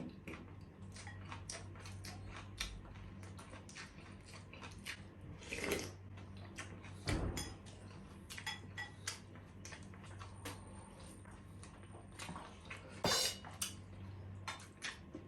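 Eating at the table: cutlery clicking and scraping against plates and bowls, with a few louder clatters, over a steady low hum.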